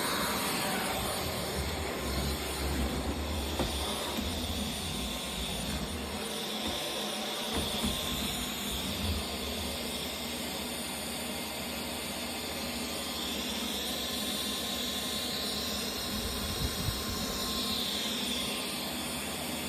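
Vacuum cleaner running steadily, its motor whine shifting higher in pitch for a few seconds in the second half before settling back down.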